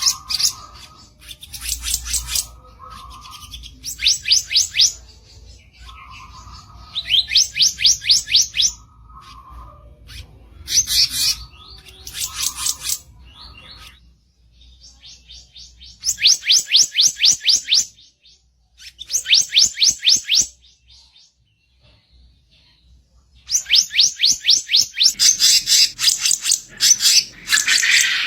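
Kicap ranting songbird singing its harsh 'kicau kasar' song: phrases of one to two seconds of fast, rapidly repeated high notes, broken by short lower calls. A brief quiet pause falls about three-quarters of the way through, and the last few seconds hold a dense, continuous run of trilled phrases.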